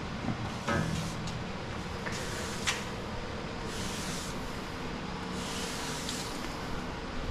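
Broom sweeping rust flakes and debris across the floor: repeated swishing strokes about every second and a half, with a couple of light knocks.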